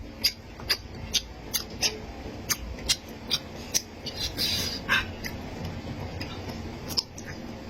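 Close-miked eating sounds: chewing and lip-smacking, about two sharp smacks a second for the first five seconds, then one more near the end.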